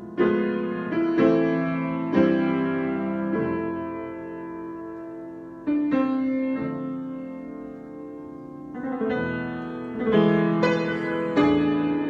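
Solo piano improvisation: chords struck and left to ring and fade, at an unhurried, irregular pace, with a quieter sustained stretch in the middle.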